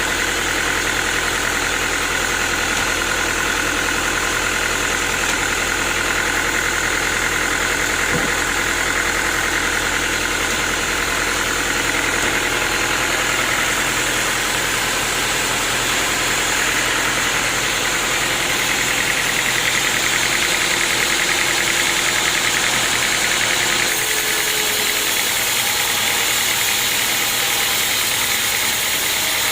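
Sawmill machinery running steadily: a continuous mechanical drone with a dense hiss over it, its tone shifting slightly about two-thirds of the way through.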